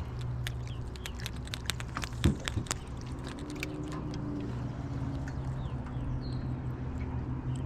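A quick run of sharp little clicks and one louder knock about two seconds in, over a steady low hum.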